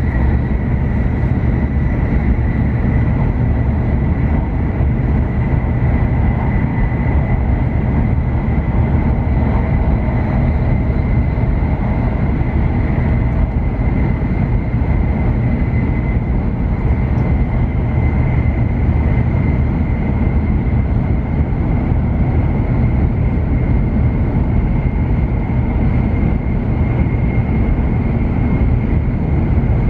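Cabin running noise of a W7 series Shinkansen travelling at speed: a steady deep rumble and rush from wheels, track and air, with a thin, steady high tone over it.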